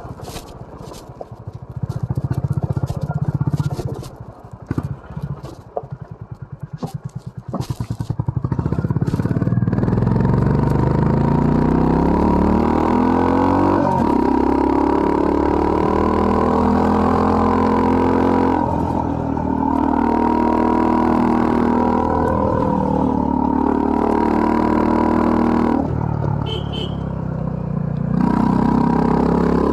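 Honda CB350 RS's air-cooled single-cylinder engine, low and uneven at first with scattered sharp clicks and knocks, then pulling hard from about ten seconds in, its pitch climbing and dropping back several times as the revs rise and fall.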